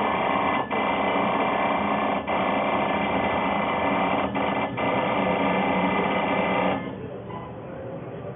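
Automatic brake-disc balancing machine running: a loud, steady mechanical whir with several held tones and a few brief dips, cutting off suddenly about seven seconds in and leaving a quieter hum.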